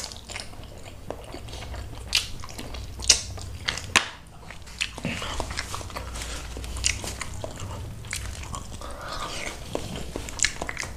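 Close-miked wet chewing and lip smacking of a person eating curried snapper head with rice by hand. A few sharp smacks stand out in the first four seconds.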